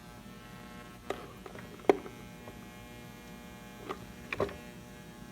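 A steady electrical hum with several short, sharp knocks or clacks, the loudest about two seconds in and a quick pair near the end.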